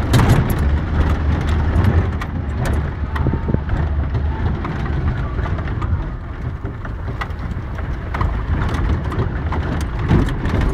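Suzuki Samurai driving over a dirt motocross track, heard from on board: the engine runs with a steady low rumble, and there are frequent short knocks and rattles as the body jolts over the rough ground.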